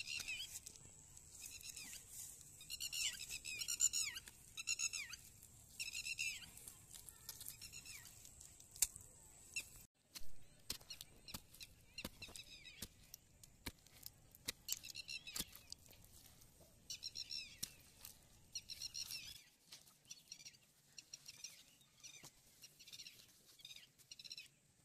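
Birds chirping in runs of short, high repeated calls, over scattered clicks and squelches of a hand and a tool digging into wet clay mud.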